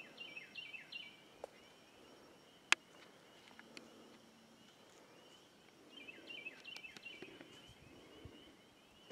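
A bird singing twice: a run of short, quick, falling whistled notes near the start and again about six seconds in, with a single sharp click in between.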